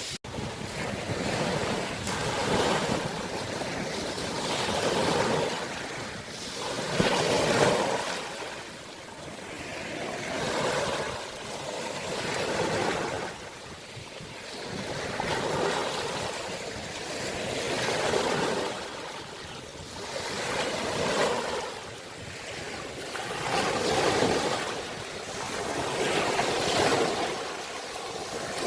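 Sea waves breaking and washing ashore, a noisy rush that swells and fades about every two to three seconds, one surge louder than the rest about seven seconds in.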